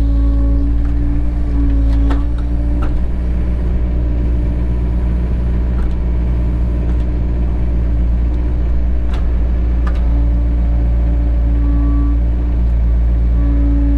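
Cat 307 excavator's diesel engine running steadily, with a higher hydraulic whine that swells and fades several times as the machine works. A few short clicks or knocks sound about two seconds in and again around nine to ten seconds.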